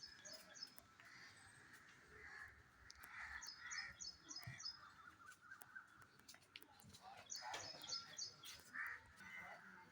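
Faint bird calls: three quick runs of high, rapid chirps spaced a few seconds apart, with a few lower calls in between.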